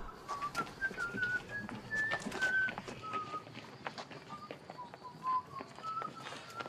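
Birds chirping: a string of short, high chirps one after another, some rising or wavering, with scattered faint clicks.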